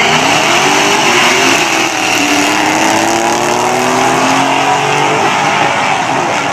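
Vehicle engine accelerating hard at full throttle. Its pitch climbs, drops back at a gear change about two seconds in and again a little after four seconds, and climbs each time, over loud rushing road and wind noise.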